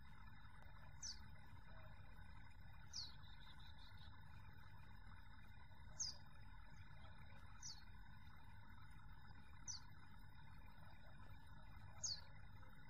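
A bird's short, high call, falling quickly in pitch, repeated six times at intervals of about two seconds. Under it runs a faint, steady low rumble of breeze on the microphone.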